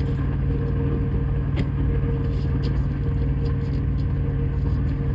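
Semi-truck engine running, heard inside the cab as a steady low rumble with a constant hum, with a few light clicks over it.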